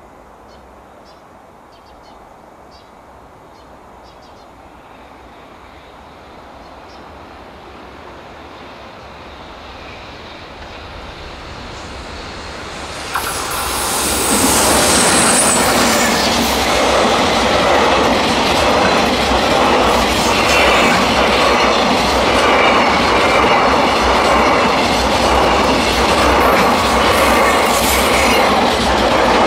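EH500 electric freight locomotive approaching, growing steadily louder until it passes close about halfway through with a brief high squeal. A long train of container wagons then rolls past with a steady clickety-clack of wheels over the rail joints.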